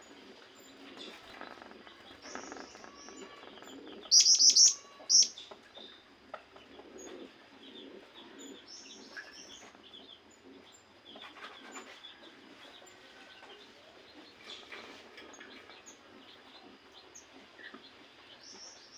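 A songbird chirping: scattered short, high chirps, with a loud run of rapid chirps about four seconds in and another loud chirp just after five seconds.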